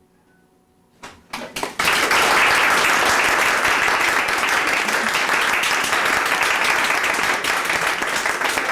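Audience applause after a song: a moment of quiet, then a few scattered claps about a second in that swell quickly into steady clapping.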